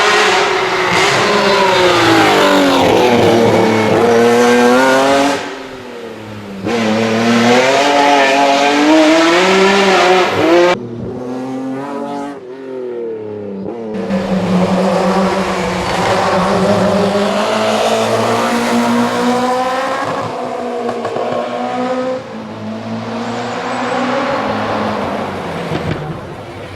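Historic rally car engines revving hard under acceleration, the pitch repeatedly climbing and dropping with gear changes, as several cars come through in turn with abrupt changes from one to the next. In the second half one engine holds a steadier note that slowly falls.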